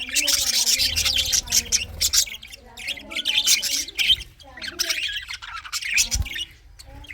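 A flock of budgerigars chattering: a busy, continuous mix of rapid warbles, chirps and squawks, thinning briefly twice.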